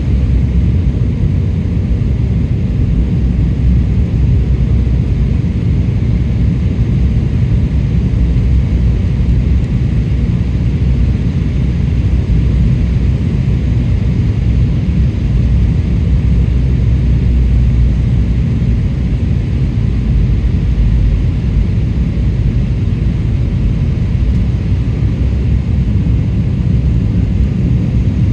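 Airliner cabin noise: a steady, loud rumble of jet engines and airflow heard from inside the passenger cabin, with no sharp bumps or changes.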